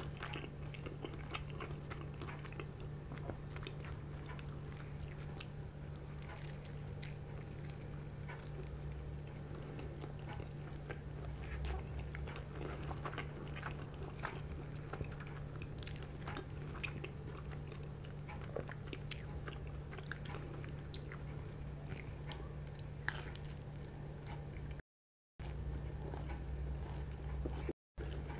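Close-up chewing and biting of a slice of pepperoni pizza with cheese-filled crust, with many small wet mouth clicks and smacks over a steady low hum. The sound cuts out briefly twice near the end.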